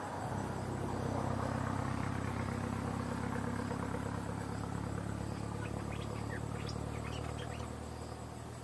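A motor vehicle's engine running steadily nearby, slowly fading near the end, with insects trilling and a few short bird chirps about six to seven seconds in.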